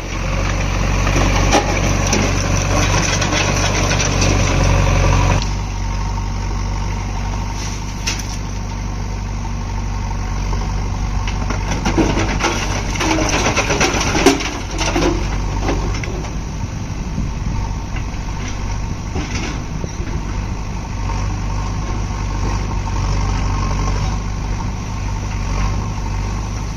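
Heavy diesel engine of earthmoving machinery running under load for about the first five seconds, then dropping to a steadier, quieter run, with a few short knocks and clunks around the middle.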